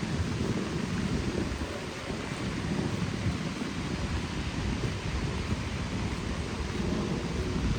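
Heavy rain falling steadily, with wind buffeting the microphone in a low, uneven rumble.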